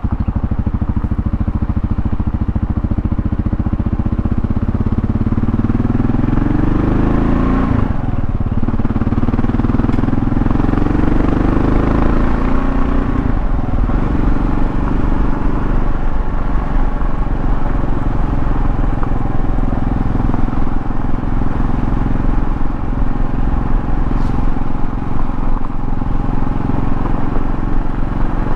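Kawasaki KLR650's single-cylinder engine accelerating through the gears. The revs climb and drop sharply at two upshifts in the first half, then the engine runs at a steady cruising speed.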